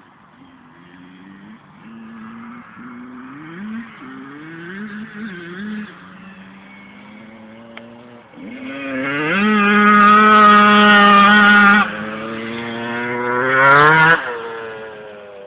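Motorbike engine revving: light blips of throttle at first, then a loud climb to a high steady rev about eight seconds in, a sudden drop just before twelve seconds, a second climb that cuts off near fourteen seconds, and a falling tone as it fades.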